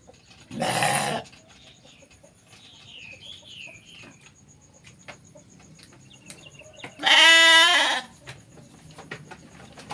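Sheep bleating twice: a short hoarse bleat about half a second in, then a longer, wavering bleat about seven seconds in. A faint warbling bird call sounds in between.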